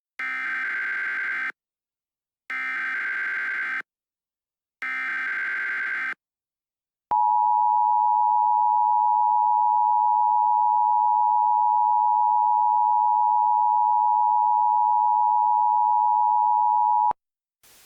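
Emergency Alert System tones: three short bursts of the digital SAME header, about a second apart, then the steady two-tone attention signal held for about ten seconds before it cuts off. Together they mark the start of an emergency alert broadcast.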